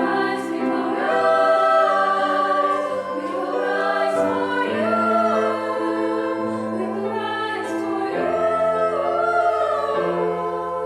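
Choir singing with piano accompaniment, sustained vocal lines over held piano chords.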